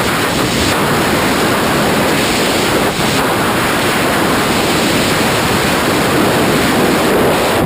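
Loud, steady rush of wind buffeting the camera microphone during skydiving freefall.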